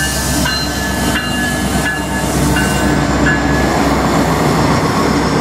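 CN freight train passing close by: steady diesel locomotive drone under the rumble of rolling wheels. Short high squeals from the wheels come and go through the first three and a half seconds, some starting with a click.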